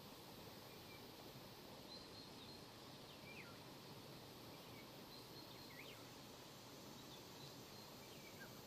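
Faint outdoor ambience with birds calling: scattered short high chirps and a few quick downward-sweeping whistles over a steady low hiss.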